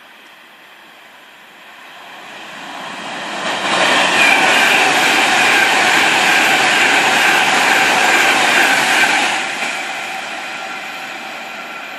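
Train passing at speed. The noise builds for about two seconds, stays loud for about six with a steady whine in it, then falls away and fades.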